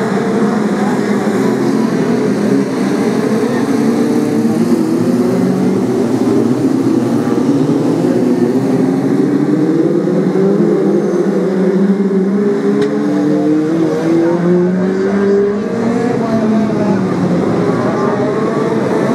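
Several Brisca F2 stock car engines running together in a race, their overlapping pitches rising and falling as the cars accelerate and ease off.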